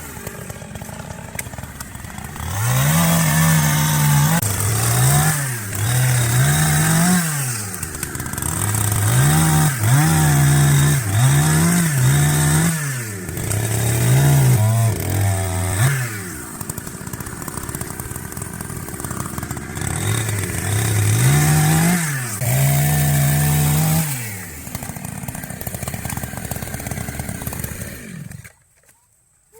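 Chainsaw revving up and falling back again and again as it cuts through logs, settling to a lower steady idle in between. Near the end it cuts off abruptly.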